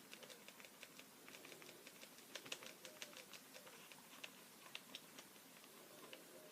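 Faint, irregular light taps and clicks of a pen tip on paper while drawing, several a second with short gaps.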